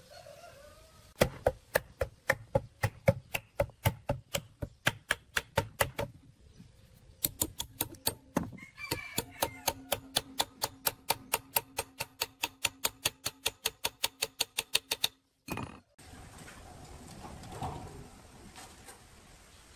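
Rapid, regular knocking in two runs: about four strikes a second, then after a short pause about five a second with a steady low hum beneath. It cuts off suddenly, leaving a low steady background.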